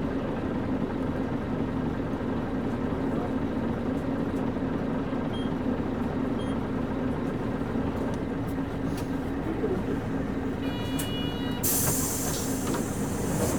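Nissan Diesel KC-UA460LSN bus with its PG6 diesel engine idling steadily, heard from inside the cabin. Near the end a short electronic buzzer tone sounds for about a second, followed by a loud hiss of compressed air from the door gear.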